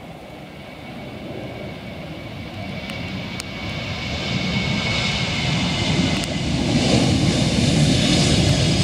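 Jet airliner taking off, its engine noise growing steadily louder as it approaches, a deep rumble under a steady high whine.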